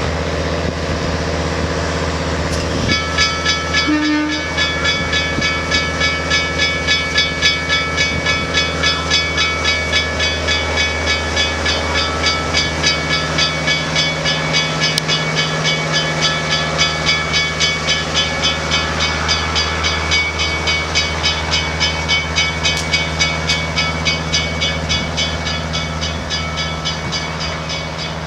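A train's bell ringing steadily, about two and a half strokes a second, starting about three seconds in, over the steady low hum of the locomotive.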